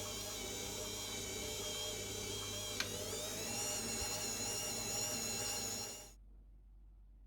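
A small electric motor running steadily with a high whine, with a sharp click about three seconds in, then cutting off suddenly about six seconds in.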